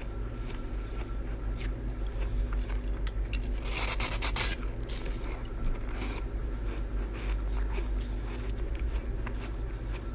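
Chest freezer frost being scraped and bitten: scattered crisp crunches and one long scrape about four seconds in, over a steady low hum.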